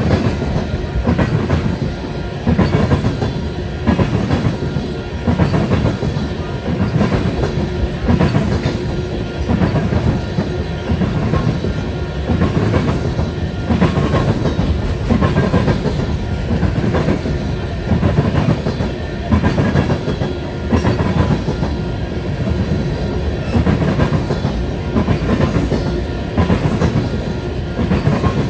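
Tank cars of a freight oil train rolling past, their wheels clacking over the rail joints in a regular rhythm, with a clatter a little more than once a second over a steady rumble.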